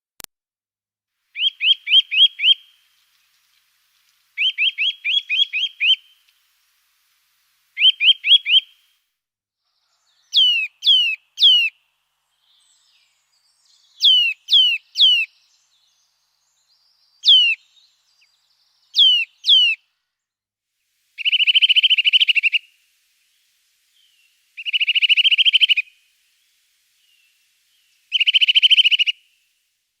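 A songbird singing in separate phrases a few seconds apart. First come quick runs of chirps, then clear whistled notes that sweep down in pitch in groups of two or three, and near the end rapid buzzy trills.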